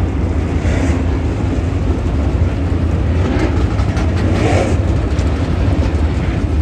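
Dirt late model race cars running on the track, a steady low rumble of engines that does not let up.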